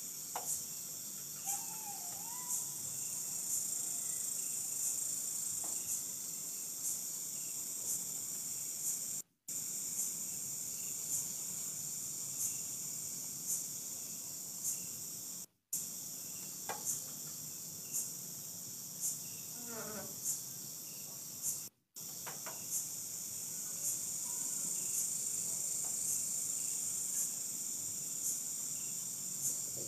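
Night insects, crickets, making a steady high-pitched drone with a short chirp repeating a little under twice a second. The sound cuts out completely three times for a moment.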